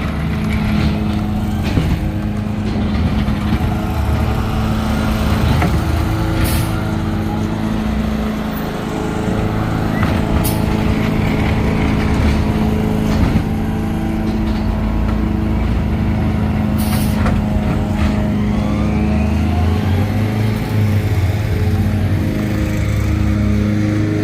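Garbage truck engine running steadily, with three short hisses of air, about six, ten and seventeen seconds in.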